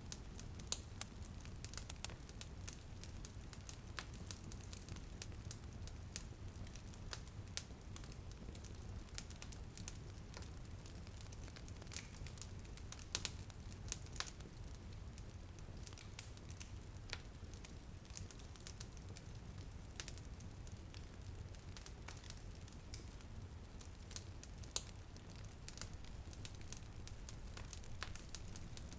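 Wood fire crackling in a fireplace: irregular sharp pops and snaps, several every second, some louder than others, over a steady low rumble, with light rain on a window blended in.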